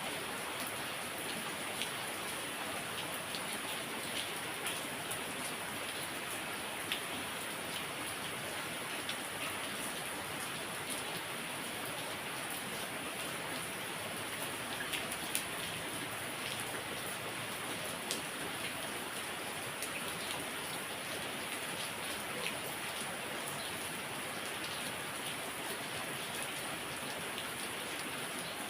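Heavy rain falling steadily, a continuous hiss with scattered sharp drop ticks on nearby surfaces.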